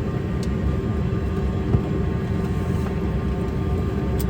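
Steady rumble and hum of an airliner cabin on the ground before takeoff, with a constant drone tone running through it and a single short click about half a second in.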